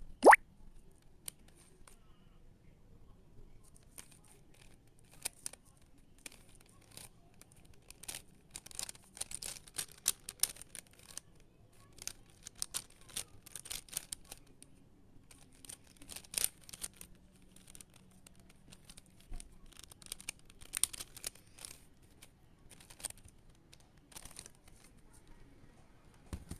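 Plastic puzzle cube being turned by hand: irregular spurts of quick clicking and scraping as the layers are twisted, with a sharp click right at the start.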